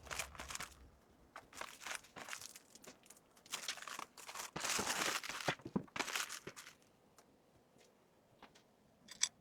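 Packaging crinkling and rustling in several bursts as items are handled and packed, the longest and loudest lasting about a second mid-way, then a few sharp clicks near the end.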